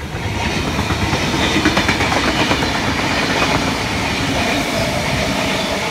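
A Sydney Trains V set double-deck electric intercity train running through the station close by without stopping. The noise grows louder in its first second as the train arrives, then holds steady, with rapid clacking of wheels over the rail joints.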